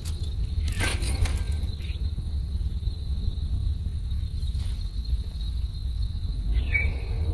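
Crickets chirping in a steady high trill over a low rumble on the microphone, with a few clicks about a second in and a short high chirp near the end.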